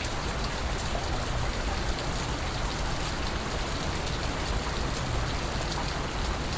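Steady rain falling, with scattered water drips ticking through it.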